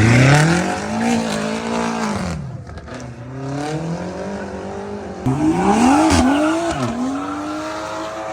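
Car engine revving hard in two bursts as the car accelerates. Its pitch climbs and dips through the gears, and after the second burst, about five seconds in, it settles to a steady high note.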